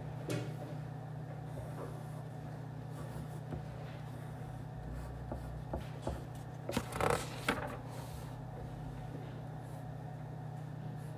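Office room ambience: a steady low hum with scattered light clicks and taps. A short cluster of sharper knocks and rustles comes a little past the middle.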